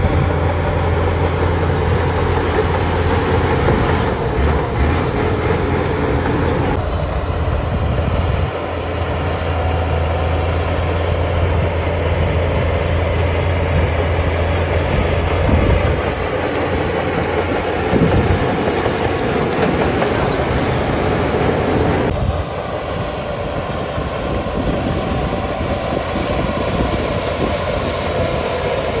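Heavy diesel earthmoving machinery running, with a steady low engine drone. The sound changes abruptly several times, around a quarter, half and three-quarters of the way through.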